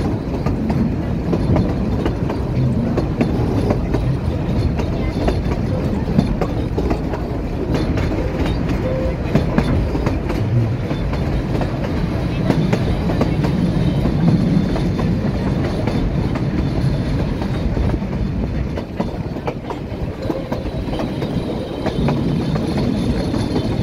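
Open-sided carriage of the Puffing Billy narrow-gauge steam train running steadily along the track, its wheels rolling over the rails.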